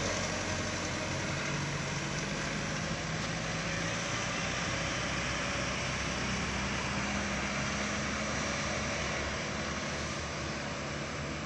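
Heavy truck's diesel engine pulling hard under load up a steep grade: a steady drone with tyre and road noise.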